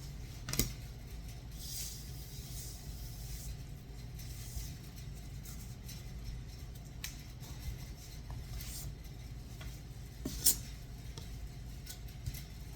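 Kitchen utensils and dishes clinking and tapping now and then during cake preparation: two sharper knocks, about half a second in and about ten seconds in, a few lighter taps, and a brief soft rustle early on, over a steady low hum.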